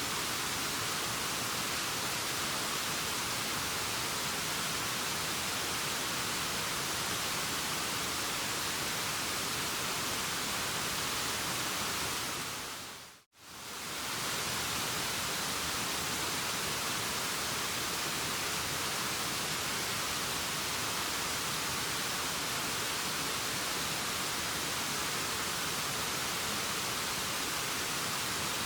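Steady rushing waterfall sound, an even hiss. About halfway through it fades out to silence and straight back in, like a loop restarting.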